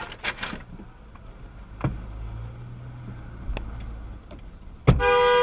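Low rumble of a car with a few sharp clicks, then a car horn blares steadily near the end.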